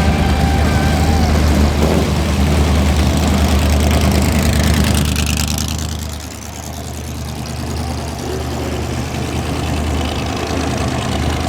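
Low-pitched car engines running at low speed as show cars roll out. Loud for the first five seconds, the sound drops about six seconds in, then slowly builds again as another car comes near.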